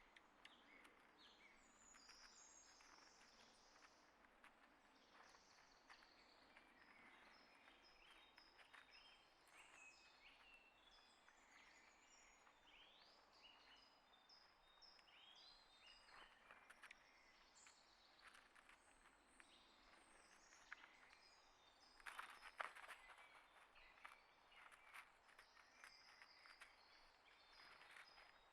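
Faint chirps and short calls of small songbirds, scattered throughout, with a brief flurry of sharp taps and clicks about 22 seconds in.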